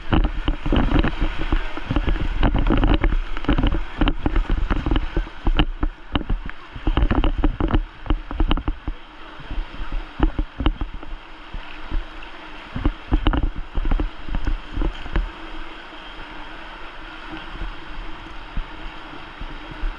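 Kayak on the water: paddle strokes and water splashing and rushing around the boat, with many irregular sharp splashes and knocks over a low rumble. It eases off in the last few seconds.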